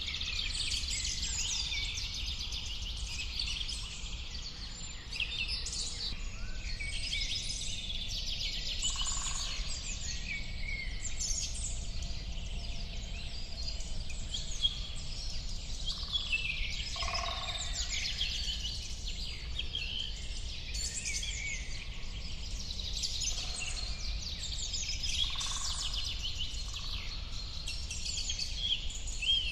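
Many songbirds chirping and singing at once in a continuous, overlapping chorus, over a steady low rumble.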